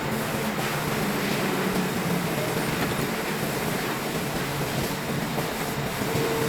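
CNC machine running steadily while machining a tractor disc brake part: an even mechanical hiss and rumble, with a steady hum rising in near the end.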